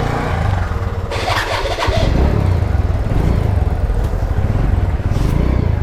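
Motorcycle engine running with an even low pulse, getting stronger about two seconds in as the bike moves off, with a short noisy rush just before that.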